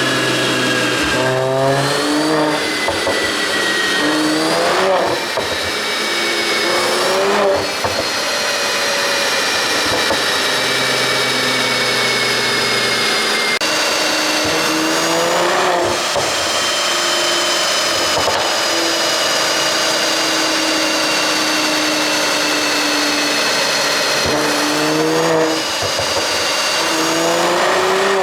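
Mercedes-AMG C43's twin-turbo V6 running on a pop-and-crackle exhaust tune, its revs climbing again and again as the car accelerates through the gears. Short sharp cracks mark several of the breaks between the climbs.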